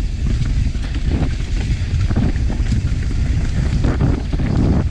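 Wind buffeting the microphone of a camera riding on a mountain bike descending a rough trail, with a steady low rumble and the bike rattling and knocking over rocky ground.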